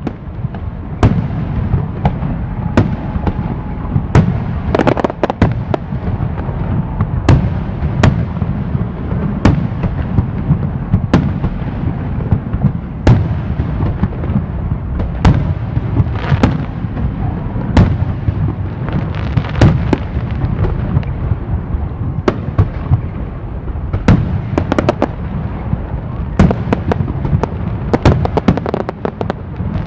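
Fireworks display: aerial shells bursting in sharp bangs every second or two, over a continuous low rumble and crackle of overlapping bursts.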